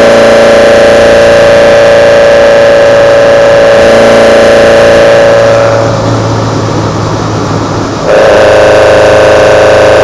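Kadett GS 16v four-cylinder engine breathing through twin side-draft Solex C40 ADDHE carburetors, holding a steady high-pitched intake and engine note. The note falls away for about two seconds from around six seconds in, then comes back suddenly at the same pitch just after eight seconds.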